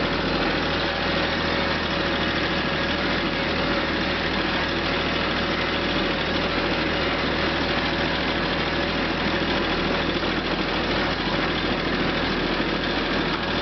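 Mahindra Max 24 compact tractor's diesel engine running steadily.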